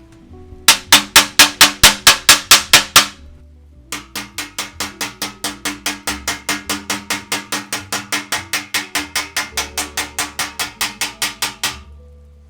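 Rapid light hammer taps on a baritone's brass tubing, working out a sharp dent: a loud run of about a dozen taps, then after a short pause a longer, somewhat softer run, both at about five taps a second.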